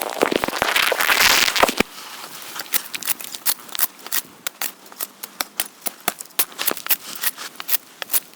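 Wood fire crackling and popping in sharp, irregular cracks, with a louder hissing rush over the first two seconds before it settles to scattered pops.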